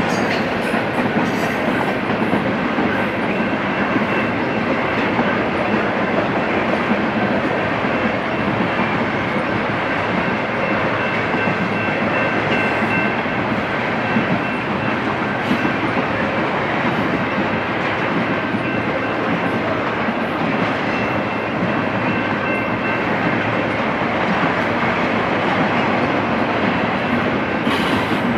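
Double-stack intermodal freight train rolling past: steel wheels on rail as a steady noise, with a faint thin high ring from the wheels at times.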